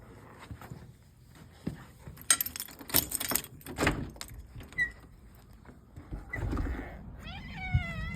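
Rustling and clattering handling noises, loudest about two to four seconds in. Near the end a cat starts a long meow, rising and then held.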